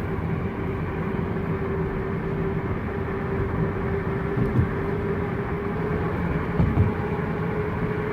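A steady mechanical hum with one constant tone running through it and two faint knocks in the second half.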